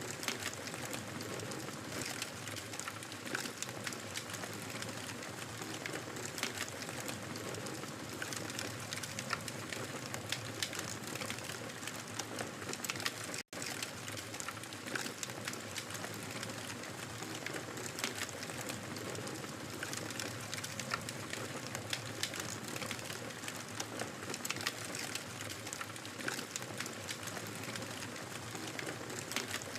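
Wood fire crackling in a fireplace: a steady hiss with many small sharp pops and snaps scattered throughout, and one momentary gap about halfway through.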